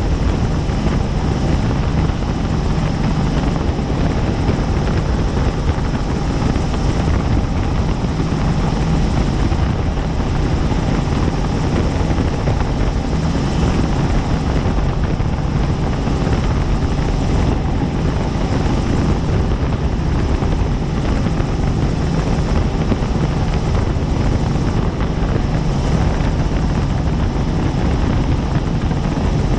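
Helicopter in steady cruising flight: constant, loud rotor and engine noise that holds even throughout.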